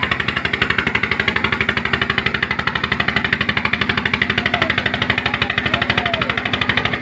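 An engine running steadily with a fast, even chugging beat of about seven to eight pulses a second.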